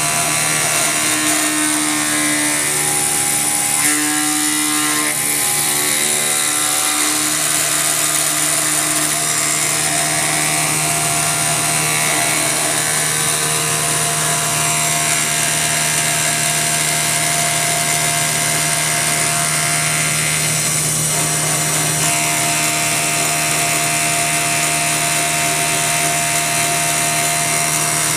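CNC milling machine cutting metal: the belt-driven spindle running steadily under load while the cutter machines the part, with a high-pitched hiss and several steady tones, some shifting in pitch during the first few seconds.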